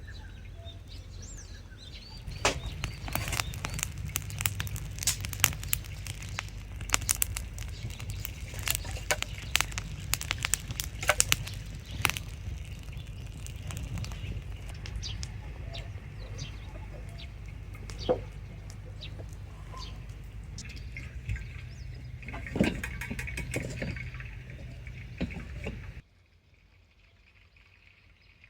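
Wood campfire crackling and popping as it catches, with irregular sharp snaps over a steady low rumble; it cuts off suddenly near the end.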